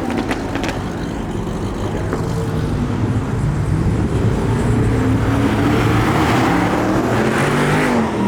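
A car's engine running and being revved, its pitch rising and falling, getting louder from about three seconds in.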